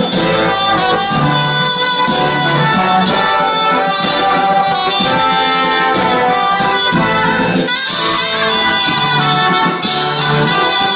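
Live band playing a brass-led instrumental passage of an indie-folk song, horns carrying the melody over a steady rhythm.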